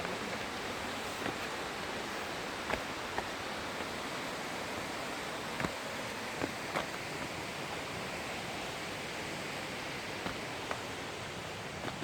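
Steady rushing of a large waterfall and its river, an even roar of water with a few faint clicks and taps scattered through it.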